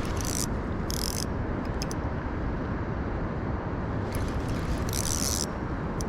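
A spinning or bait-runner fishing reel giving several short bursts of clicking or buzzing as line is worked while a carp is being played. Under it runs a steady low rumble.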